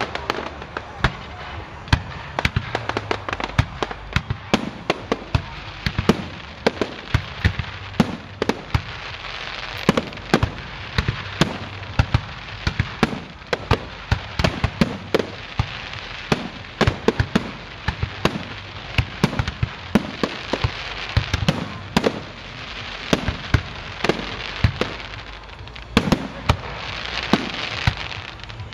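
Aerial fireworks display: a continuous barrage of shell bursts, several bangs a second, over a crackling hiss from the bursting stars that swells in places.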